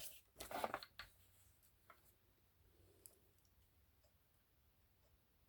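A few short clicks and taps of craft tools and paper being handled in the first second, then a couple of faint ticks in near silence.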